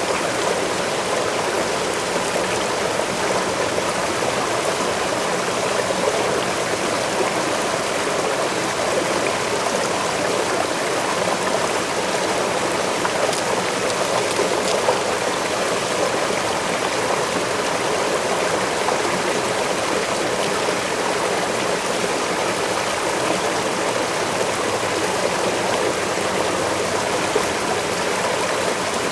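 Forest waterfall and its stream: a steady, unbroken rush of falling and flowing water.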